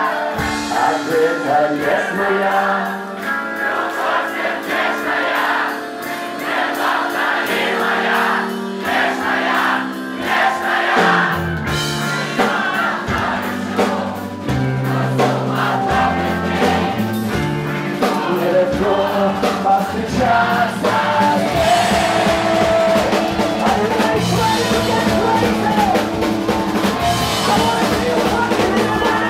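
Live band playing a song at a concert, with drums and singing over a loud full mix.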